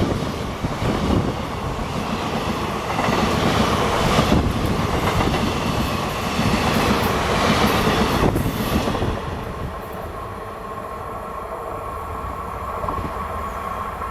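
Railway wagons rolling past on the track with a loud rumble and clickety-clack of wheels over rail joints. The sound eases off after about nine seconds, leaving a quieter rumble with a thin steady whine.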